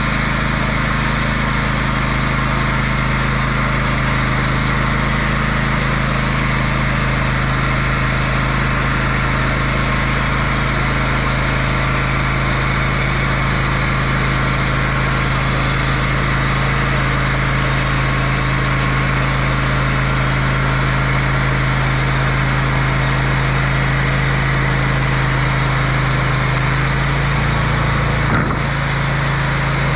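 Engine running steadily at an even speed, its low note shifting slightly near the end.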